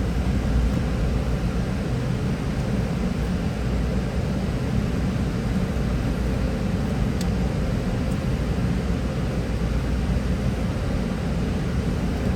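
Steady low rumble of a car idling, with a faint tick about seven seconds in.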